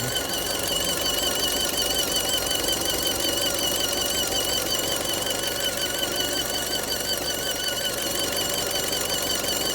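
Fiat's engine running with a strange high-pitched whine that wavers steadily up and down in pitch throughout: an abnormal engine-bay noise that the owner fears means something has suddenly broken.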